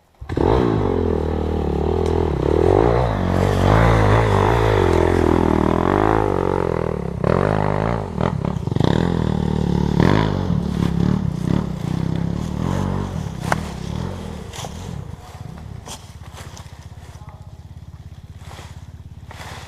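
Dirt bike engine running with the throttle opened and closed, its pitch rising and falling. About three-quarters of the way through it drops to a quieter, steady running.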